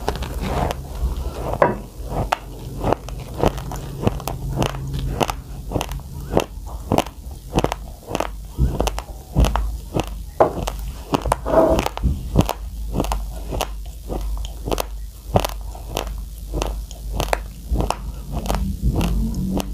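Close-miked crunching of a mouthful of raw, uncooked rice grains being chewed, a steady rhythm of about two crunches a second.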